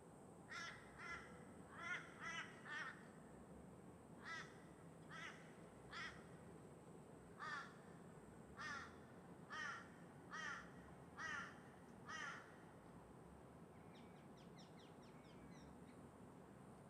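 Crow cawing repeatedly: about fourteen caws over twelve seconds, some in quick runs of two or three.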